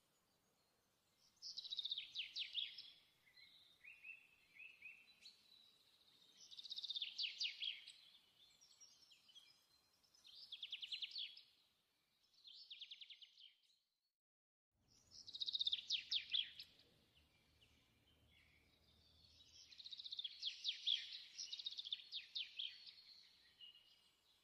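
A songbird singing: short, high, fast trilled phrases every few seconds with pauses between. The sound cuts out completely for about a second midway.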